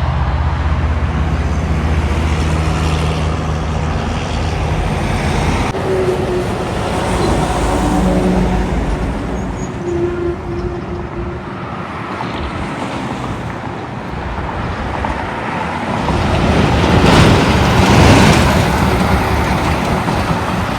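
Road traffic with heavy trucks: a diesel engine hums low and steady for the first six seconds or so, then a vehicle passes close and loud about seventeen seconds in.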